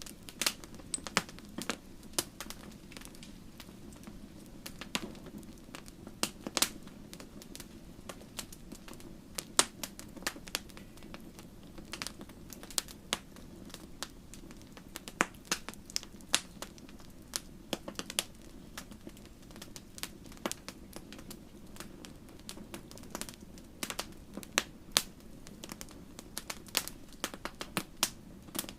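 Wood fire crackling in a fireplace: irregular sharp pops and snaps, several a second at times, over a steady low rumble of the flames.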